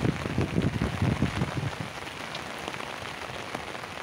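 Steady rain, with a dense run of low thuds in the first two seconds before it settles to an even hiss.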